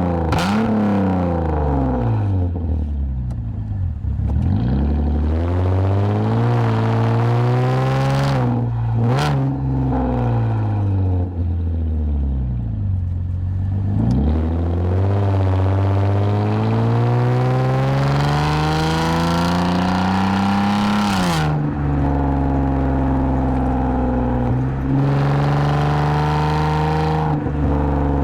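2010 Lexus IS250 AWD's 2.5-litre V6 through an aftermarket full exhaust with valved mufflers, under way on the road. The engine revs rise and fall through several pulls and gear changes. The longest climb drops off sharply about three-quarters of the way through, and the engine then settles into steady cruising revs.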